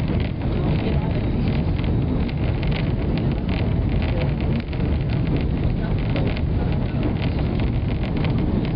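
Steady low rumble of a White Pass and Yukon Railway passenger train running, heard from aboard, with constant small rattles and clicks.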